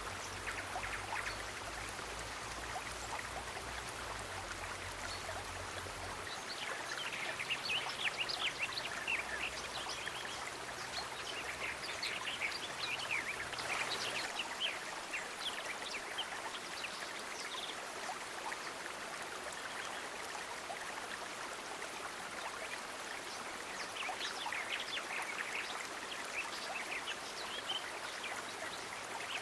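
Steady sound of flowing stream water. Clusters of short, high, sharp sounds rise out of it three times: about a quarter of the way in, around the middle, and again near the end.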